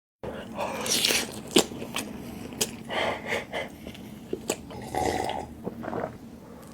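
Close-miked eating sounds: crunchy bites and chewing, with scattered sharp crackles. The loudest snap comes about a second and a half in.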